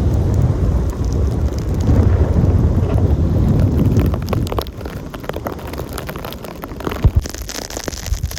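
Blizzard wind gusting against the microphone: a heavy low rumble that is strongest for the first four seconds or so and then eases, with scattered light ticks and a single thump about seven seconds in.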